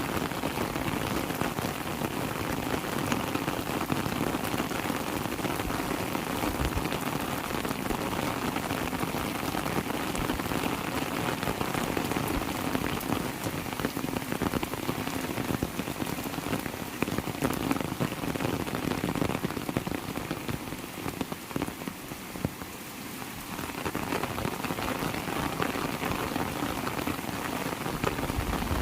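Heavy rain falling steadily, a dense patter of drops on surfaces. The rain eases slightly for a few seconds about two-thirds of the way through, then picks back up.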